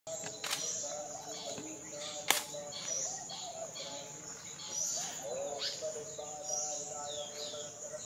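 Small birds chirping: many short, high chirps throughout, over lower wavering notes. Two sharp clicks come in the first few seconds, the louder one about two seconds in.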